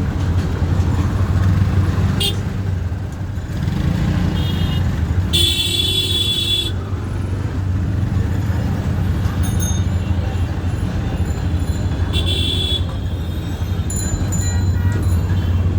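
Train running with a steady low rumble, with two high-pitched tones over it: one about a second and a half long about five seconds in, and a shorter one about twelve seconds in.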